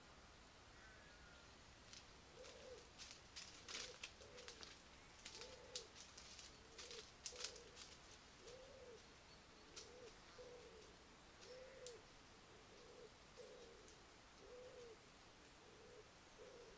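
A bird calling faintly in a series of short, low notes, about one a second and sometimes in quick pairs, with scattered faint clicks through the first half.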